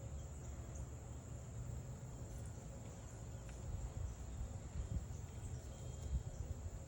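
Outdoor nature ambience: a steady, high-pitched insect trill like crickets, with a few faint bird chirps, over a low rumble that swells in short pulses near the end.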